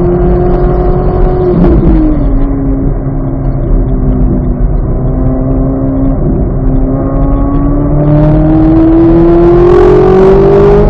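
2023 Chevrolet Corvette Z06's flat-plane-crank V8 under load. Its pitch drops sharply at a gear change about two seconds in, then climbs steadily as the car accelerates.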